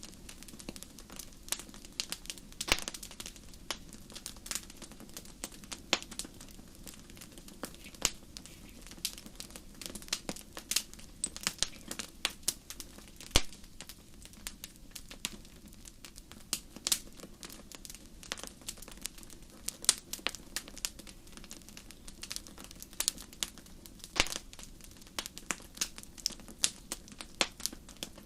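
Wood fire burning in a fireplace, crackling and popping in irregular sharp snaps over a low steady rumble of the flames.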